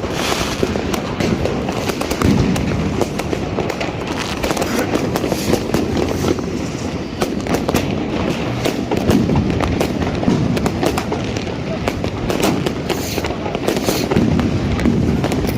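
Fireworks and firecrackers going off without a break, many sharp cracks and bangs overlapping, with voices mixed in.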